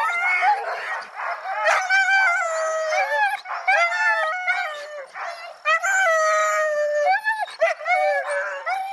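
A pack of sled dogs howling and yelping together, several voices overlapping, with long wavering howls held for about a second at a time.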